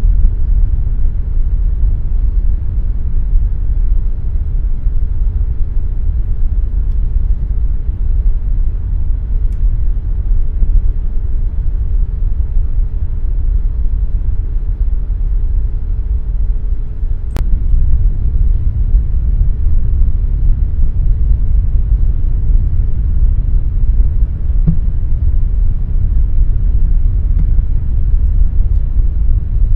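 Air conditioner running steadily: a loud, even noise weighted toward the low end, with a faint steady hum over it. The hum stops with a single sharp click about seventeen seconds in, and the noise runs on unchanged.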